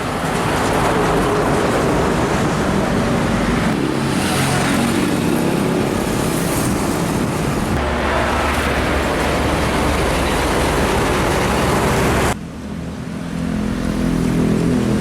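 Road traffic running close by, a loud steady rush of passing vehicles. About twelve seconds in it cuts off abruptly to a quieter low engine hum.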